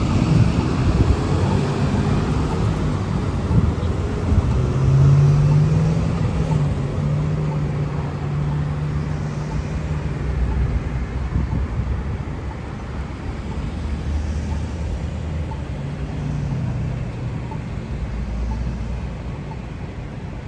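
Road traffic passing, with a vehicle engine humming low. Its pitch rises a few seconds in and then holds steady, growing louder and then fading gradually toward the end.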